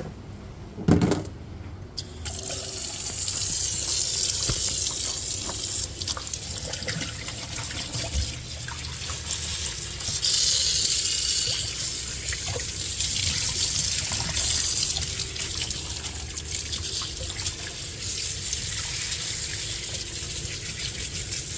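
Water running from a sink tap and splashing as a rain-water filter is rinsed out under it. The tap comes on about two seconds in, just after a knock.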